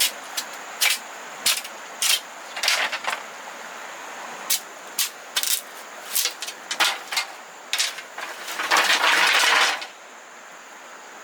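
Bamboo being worked by hand: irregular sharp knocks and clicks, with about a second of dense rustling and scraping roughly nine seconds in. A steady high insect drone runs underneath.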